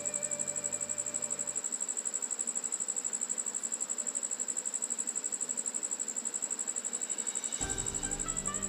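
Steady, high-pitched insect trill, pulsing rapidly. Faint background music drops out about one and a half seconds in and comes back near the end.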